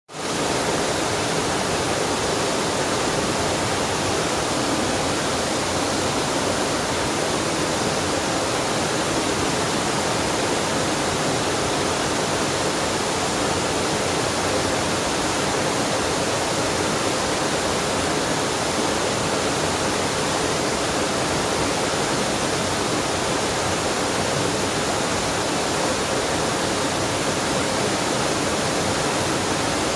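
Waterfall on a mountain stream: a steady, even rush of falling water that fades in at the very start and holds unchanged throughout.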